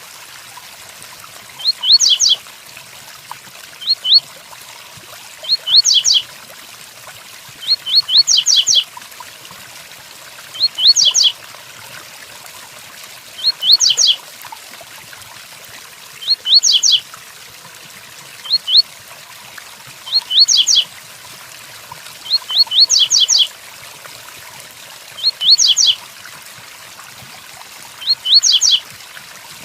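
Double-collared seedeater (coleiro) singing the 'tui tuí' song type: short phrases of two to four quick, high, downward-sweeping notes, repeated every two to three seconds. Under it runs a steady hiss of rain.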